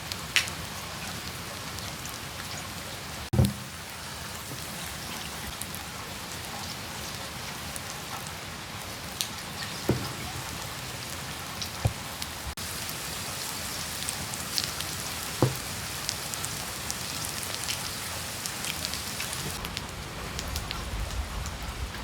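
Steady rain falling, a dense patter of drops with about four heavier, deeper drips standing out.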